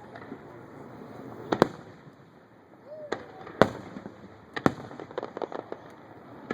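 Aerial fireworks going off: several sharp bangs of shells bursting a second or so apart, the loudest a little past halfway, then a quick run of small crackling pops near the end.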